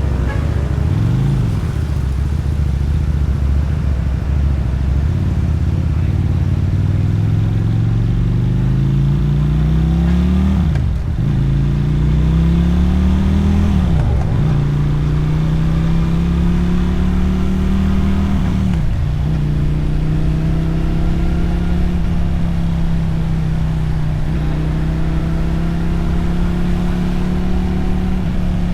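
Motorcycle engine and exhaust under way, accelerating through the gears: the note climbs in pitch and drops sharply at each upshift, once about a second in and three times in the middle. It then holds a steady cruising note.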